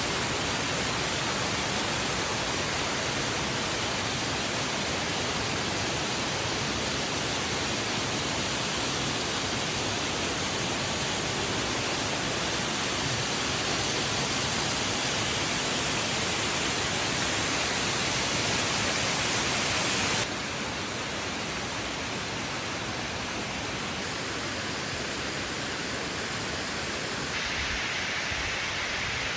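Rushing water: a steady, even noise, changing abruptly in level and tone twice, about 20 and 27 seconds in.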